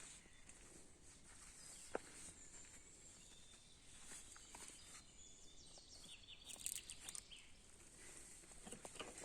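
Quiet forest ambience: a faint, steady high hiss with scattered small clicks and rustles. There is a single sharp click about two seconds in and a short rattling run of clicks near seven seconds.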